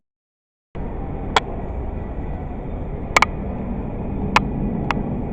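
Steady rumbling cabin noise of an airliner on the ground, with four sharp clicks scattered through it. It cuts in suddenly under a second in, after a moment of dead silence.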